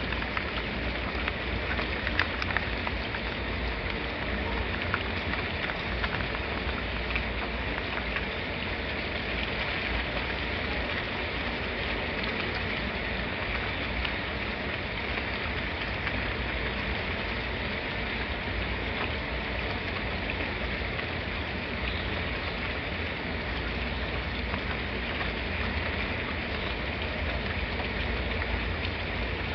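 Steady rain falling: a continuous even hiss with scattered drop ticks and a steady low rumble underneath.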